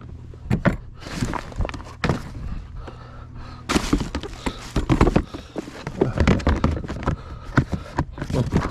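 Irregular knocks and thuds, with a steady low hum that stops a little over three seconds in, after which the knocking becomes denser over a rustling noise.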